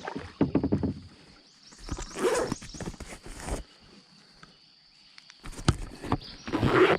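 Handling noise in a kayak: three bouts of rustling and scraping with knocks, and a single sharp knock a little past halfway, as a just-caught bass and gear are handled on the measuring board.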